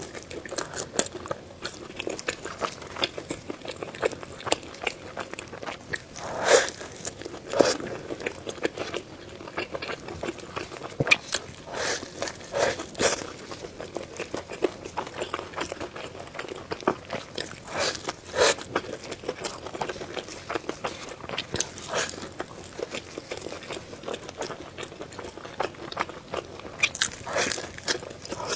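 Close-miked eating sounds: a person biting and chewing food, with irregular sharp bites and wet chewing, and a few louder bites about six to eight seconds in and again around twelve seconds.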